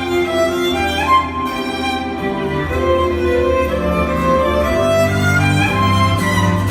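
Solo violin playing a slow, sustained melody over a low backing accompaniment.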